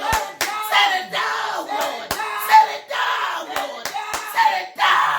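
Impassioned shouting voices in worship with no clear words, with scattered hand claps or slaps at irregular intervals.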